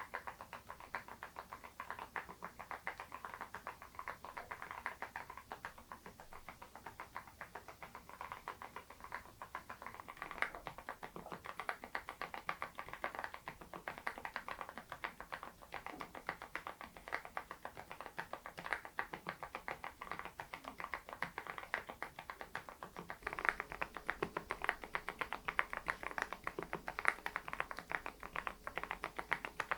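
Continuous typing on a Geekstar GKG87R tenkeyless mechanical keyboard with stock HMX Sunset silent switches, several keystrokes a second. The typing grows a little louder about two-thirds of the way through.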